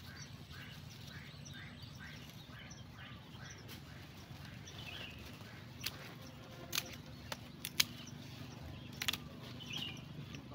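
Outdoor ambience with a bird chirping in a quick repeated series during the first few seconds, over a steady low hum. In the second half come several sharp clicks and snaps, the loudest about eight seconds in, as hands work and break the roots of a small tree pulled from the soil.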